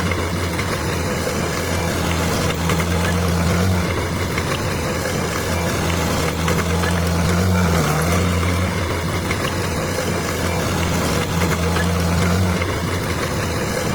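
Bulldozer's diesel engine running steadily, its pitch shifting briefly a few times.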